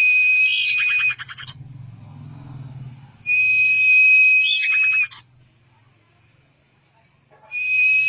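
Common iora song: a long, steady, high whistle held for about a second and a half, ending in a quick run of notes that drops away. The phrase comes three times: at the start, about three seconds in, and again near the end.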